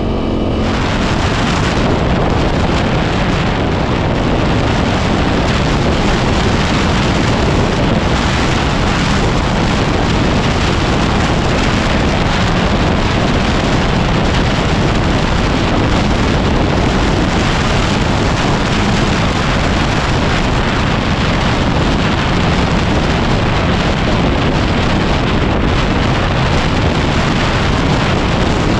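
Heavy wind noise buffeting the microphone while a 2010 Yamaha WR250R trail bike rides along, its single-cylinder engine mostly buried under the steady rush.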